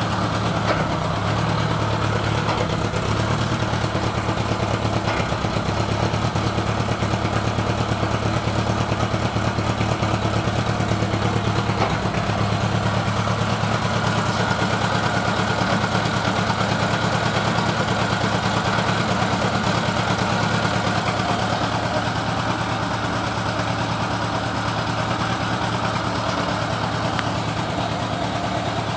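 Honda GL1000 Gold Wing's flat-four engine idling steadily with an even, rapid pulsing, which the owner suspects of a misfire.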